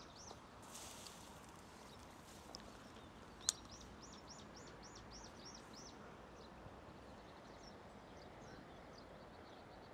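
Faint quiet with a small bird singing a quick series of high chirps, about three or four a second, from a few seconds in. A single sharp click sounds just before the chirping starts.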